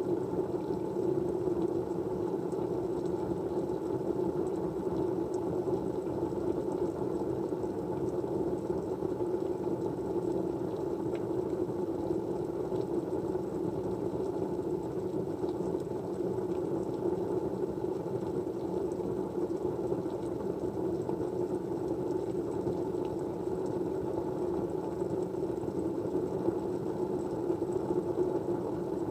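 Steady, low rushing white-noise background with no change in level, and a few faint ticks over it.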